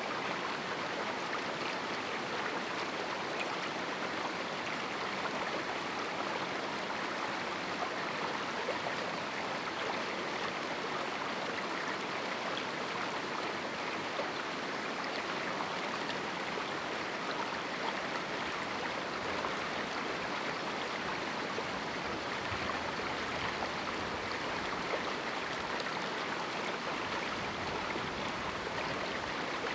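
A small canyon river flowing over rocks: a steady, even rush of running water.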